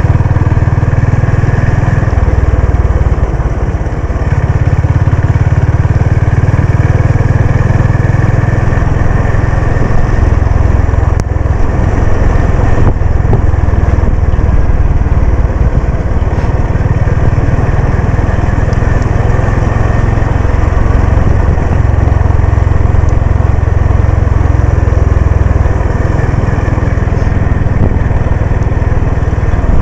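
Honda CB350 RS's air-cooled single-cylinder engine running steadily while the motorcycle is ridden, its deep low note continuous, with a brief dip in level about four seconds in.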